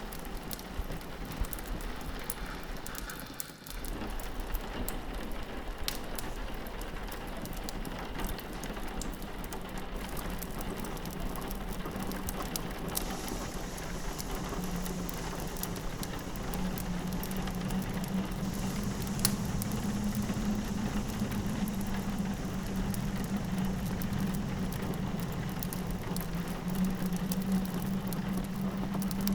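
Fireplace crackling with sharp pops over a steady patter of rain against a window. A low drone, the wind outside, swells from about halfway through, and the sound briefly dips about three and a half seconds in.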